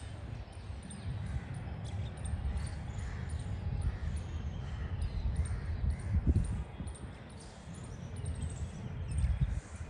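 Faint bird calls over a steady low rumble.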